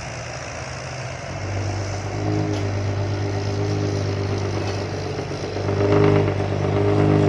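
Diesel dump truck with a loud aftermarket exhaust pulling under load. Its deep steady engine note swells about a second and a half in, and again near the end.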